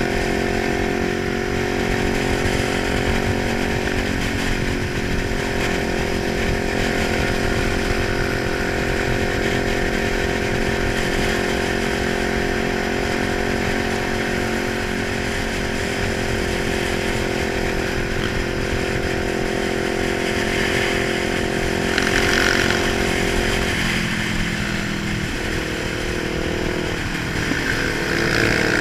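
Kawasaki 900 motorcycle engine running at steady revs, with a hiss of wind noise over it. About three quarters of the way through, the revs drop and the engine note falls in pitch.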